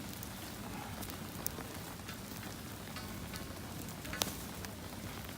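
Steady patter of rain with a wood campfire crackling alongside: a sharp pop about one and a half seconds in and a louder one about four seconds in.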